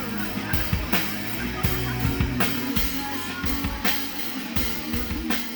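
Rock band playing: drum kit with regular kick and snare hits over electric guitar and bass.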